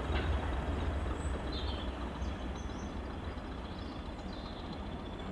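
Diesel-electric multiple unit 'Thumper' (Hastings unit 1001), its English Electric diesel engine giving a deep, throbbing rumble that slowly fades as the train pulls away.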